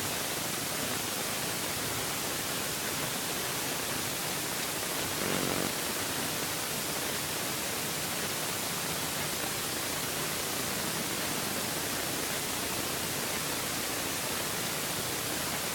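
Steady, even hiss of static-like noise, with no bangs; a faint brief pitched sound shows about five seconds in.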